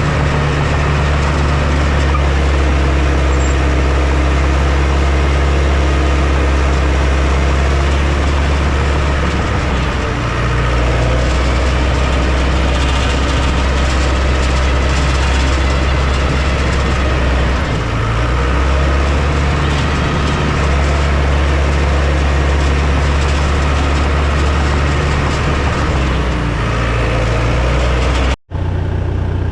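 Heavy diesel machine engine running steadily, its note shifting a little about ten seconds in and again near eighteen seconds, with a brief sudden dropout near the end.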